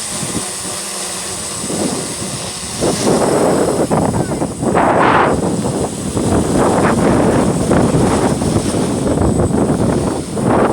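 Strong wind buffeting the microphone in loud, rough gusts that set in about three seconds in and keep going, over a faint steady hum.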